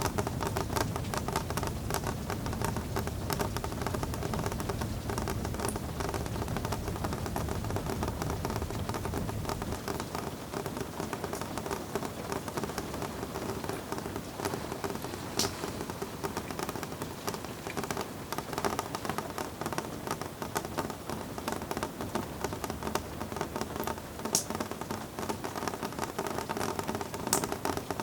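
Steady rain pattering, a dense hiss of fine drops with a few sharper drop ticks standing out. A low rumble underneath eases off about ten seconds in.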